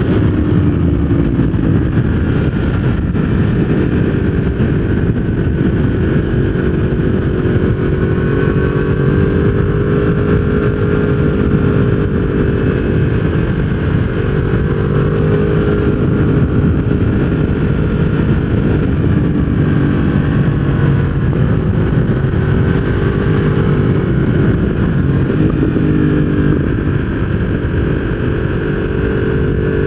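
Yamaha R1 inline-four engine running through a full aftermarket exhaust system at fairly steady revs, its pitch drifting gently up and down.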